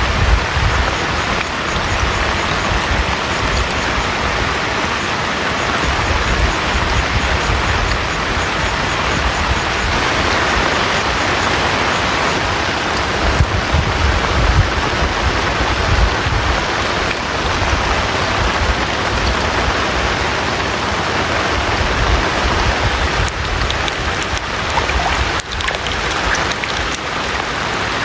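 Heavy rain falling steadily, a dense even hiss, with a low rumble underneath that swells and fades.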